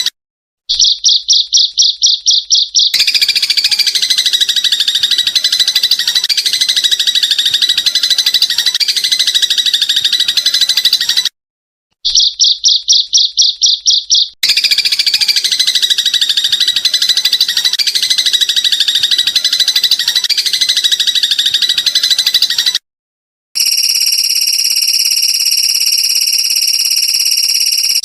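Bird-training compilation of looped songbird and insect calls, spliced back to back with short silent gaps. A rapid pulsed call of about five pulses a second comes twice, each time followed by a long dense chirping trill, and near the end a steady shrill buzz holds several fixed pitches.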